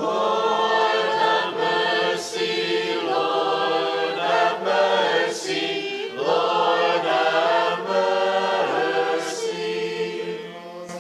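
Church choir singing an unaccompanied chant-like litany response in sustained chords of several voices, part of the Eastern-rite Ekteny of the Ukrainian Catholic liturgy sung in English.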